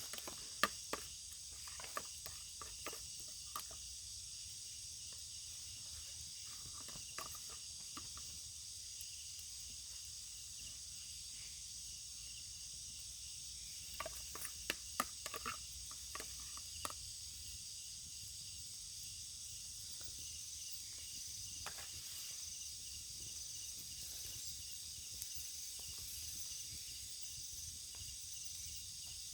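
Steady high-pitched insect chorus, with scattered sharp clicks and knocks in the first few seconds and again about halfway through.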